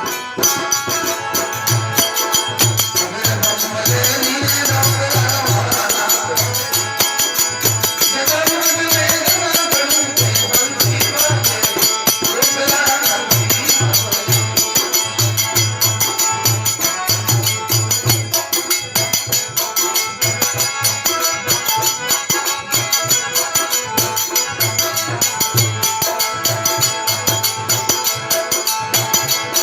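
Instrumental passage of devotional aarti music: fast, even jingling percussion over a steady low drum beat, with a melodic instrument playing along and no singing.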